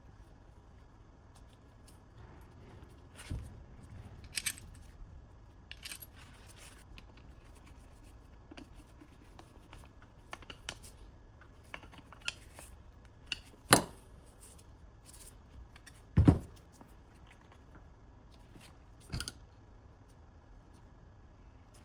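Metal tools and parts being handled: scattered clicks, clinks and knocks at irregular intervals, the loudest two heavier knocks about three seconds apart.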